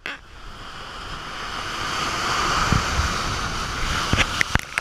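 Ocean surf rushing in as a big wave approaches, swelling in loudness over the first couple of seconds, with wind buffeting the microphone. A few sharp knocks come near the end.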